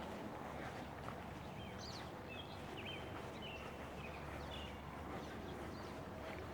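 Faint short high bird chirps over a steady low rumble of distant highway traffic.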